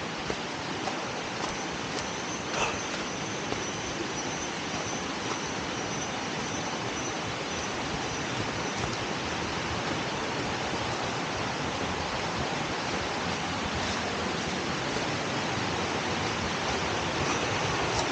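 Waterfall, with rushing water making a steady, even roar. A faint high whine comes and goes in the first half, and there is one sharp click about two and a half seconds in.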